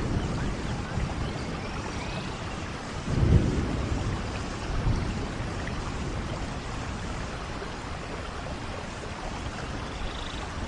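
Steady heavy rain falling, with a low rumble of thunder swelling about three seconds in and a weaker one shortly after.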